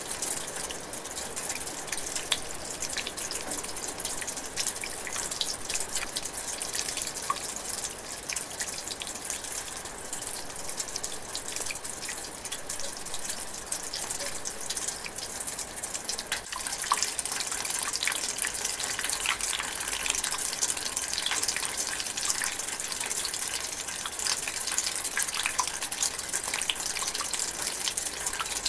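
Light rain falling steadily, a soft hiss of drizzle with many close drops pattering and dripping; it gets a little heavier about two-thirds of the way through.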